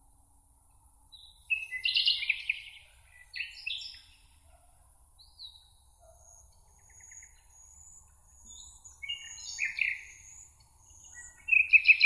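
Songbirds singing: bursts of quick chirping phrases about two seconds in, near ten seconds and again at the end, with thin high notes between them, over a faint steady hiss.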